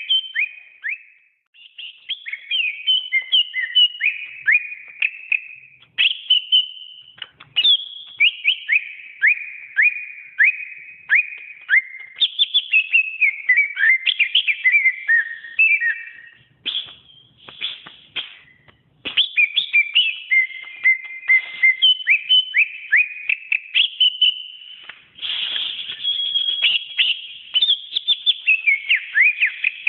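Green leafbird (cucak ijo) singing: a long, varied song of rapid whistled notes, many sliding downward, delivered in phrases broken by short pauses.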